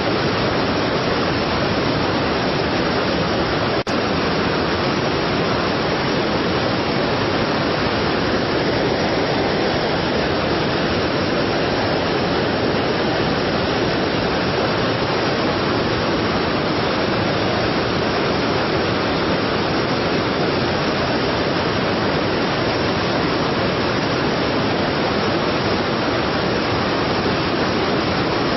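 Strong waterfall: a steady, dense rush of falling water that stays even throughout.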